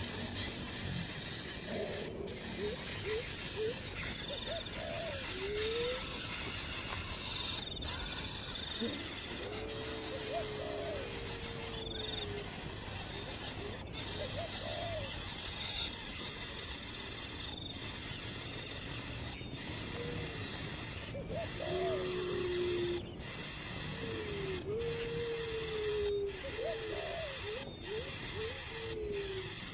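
Bird calls: many short, low calls that slide up or down in pitch, some in quick clusters and a few drawn out to about a second, over a steady high hiss.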